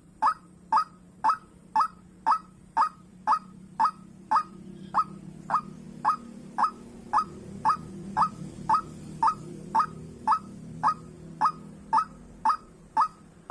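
White-breasted waterhen (dahuk) calling: short, sharp notes repeated at an even pace of about two a second. A low steady hum sits beneath, louder in the middle.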